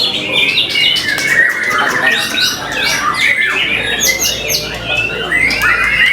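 White-rumped shama (murai batu) singing a long, fast run of varied whistles, chatters and sweeping notes without a break.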